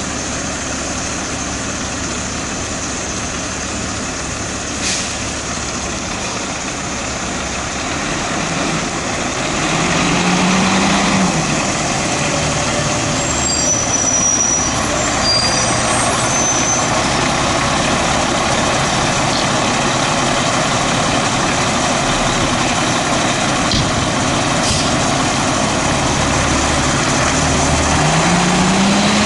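Steady road traffic noise with a heavy diesel vehicle's engine rising in pitch as it accelerates, once about ten seconds in and again near the end. A few short high squeals come through around the middle.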